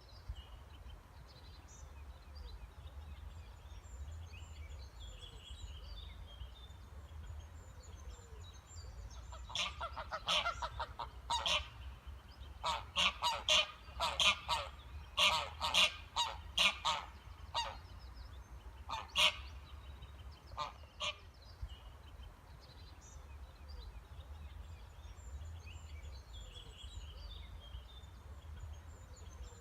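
Waterfowl calling in a run of short, repeated calls, clustered from about ten seconds in to about twenty seconds in, over a steady low rumble, with faint small-bird chirps throughout.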